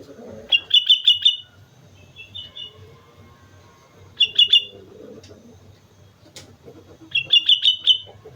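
Sooty-headed bulbul singing: three loud bursts of quick, bright repeated notes, about a second in, just past halfway and near the end, with a softer short phrase between the first two.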